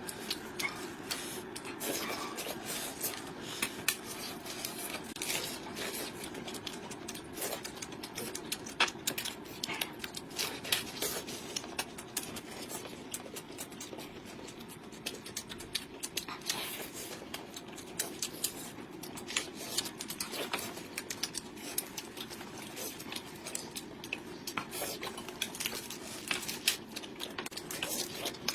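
Chopsticks and utensils clicking and tapping against bowls and plates during eating, many small irregular clicks over a steady low hum.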